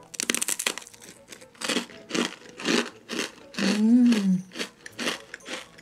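Crunchy caramel rusk, a twice-baked bread slice with raisins, bitten into and then chewed close to the microphone: a burst of crackling at the bite, then crisp crunching chews about twice a second.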